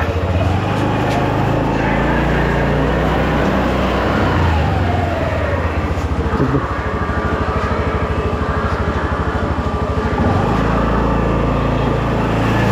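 Motorcycle engine running while riding through road traffic, a steady low hum with an even pulse and a shift in engine note about ten seconds in. Other traffic sounds faintly in the background.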